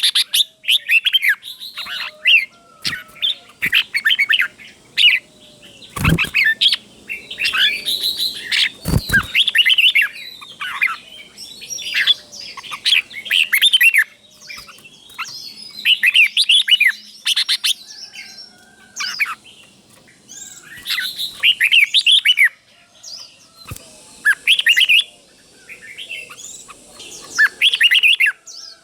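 Red-whiskered bulbul singing: repeated short phrases of quick, sweeping whistled notes with brief pauses between them. Two sharp knocks sound about six and nine seconds in.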